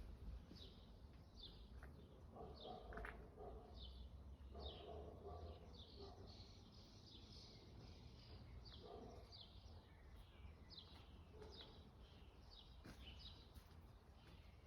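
Faint bird chirping: a short falling chirp repeated about twice a second, with a few lower sounds now and then.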